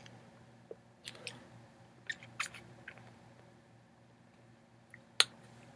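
Plastic packaging of a konnyaku jelly tube being worked open by hand: a few faint scattered crinkles and clicks, with a sharper click near the end.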